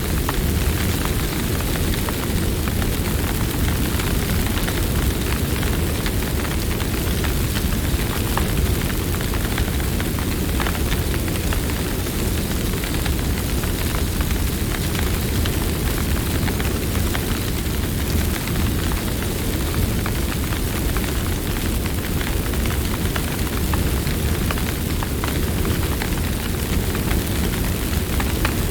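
Campfire burning: a steady low rumble of flames with frequent small crackles and pops of burning wood.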